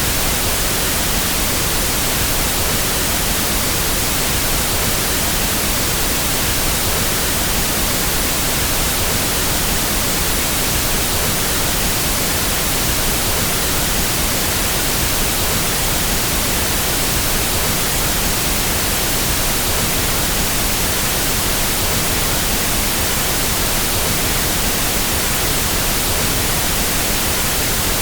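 Pink noise test signal: a steady, even hiss across the whole range from deep lows to high treble, unchanging in level. It is the reference signal used to equalize sound systems.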